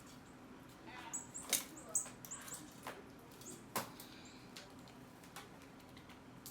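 Small birds giving short, very high chirps, several in quick succession over the first few seconds, with a few sharp clicks or taps among them that are the loudest sounds.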